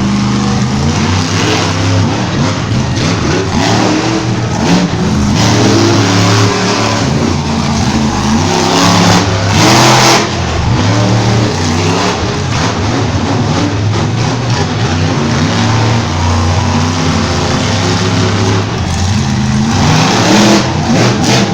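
Monster truck engine revving hard and repeatedly, its pitch climbing and dropping again and again through a freestyle run. A louder, noisier burst comes about ten seconds in.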